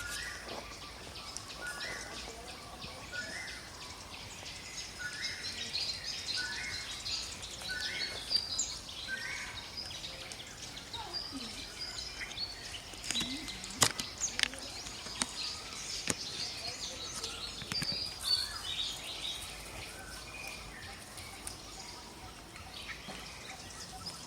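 Forest ambience with birdsong: a short call repeated about once a second for the first several seconds, with higher chirps over it, and a few sharp clicks about halfway through.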